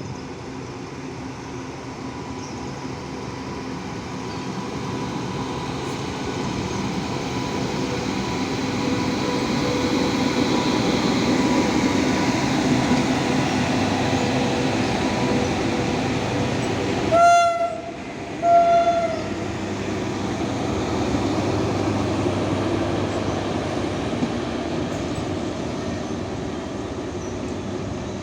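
Indian Railways express train running on the line, a steady rumble that swells and then eases. A little past halfway its horn sounds two short blasts in quick succession.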